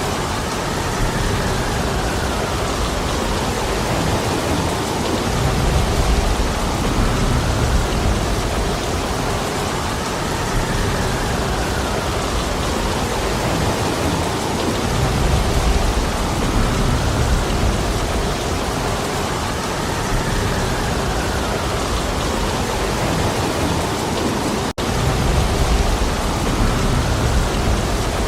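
Steady heavy rain, with low rumbling gusts of wind swelling up about every ten seconds. The sound cuts out for a split second near the end.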